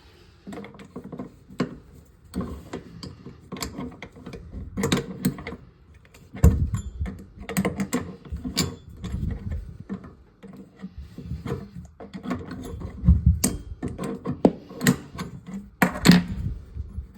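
Irregular knocks, clicks and rattles of objects being handled, with a few heavier thumps.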